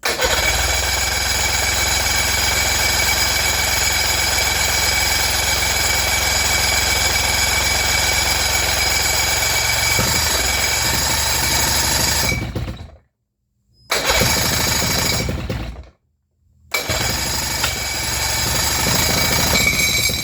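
Pontoon boat's old outboard motor running with a rapid knocking beat for about thirteen seconds, then cutting out. It runs again briefly twice, with silent gaps between.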